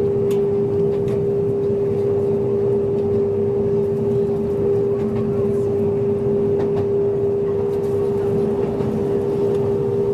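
Electric train running at a steady speed, heard from inside the front cab: a steady humming tone over the rumble of the wheels on the rails, with a few faint clicks.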